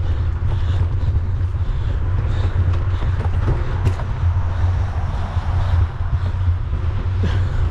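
Mountain bike ridden along a trail, with wind buffeting the camera's microphone in a steady low rumble and scattered clicks and rattles from the bike.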